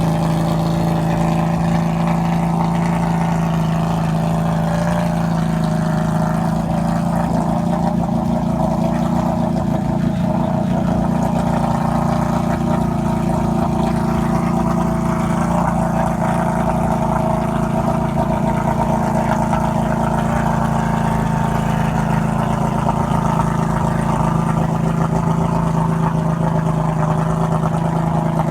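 Can-Am off-road vehicle's engine running at steady revs.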